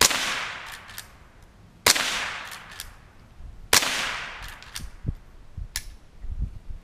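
Three rifle shots about two seconds apart, each trailing off in an echo, from a Henry lever-action rifle, with a few lighter clicks between them.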